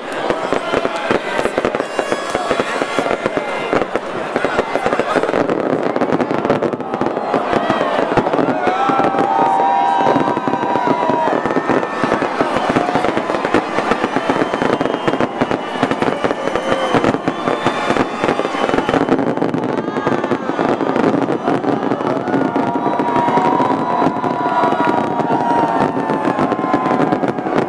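Fireworks display: a dense, continuous run of rapid bangs and crackles, with voices of the watching crowd mixed in.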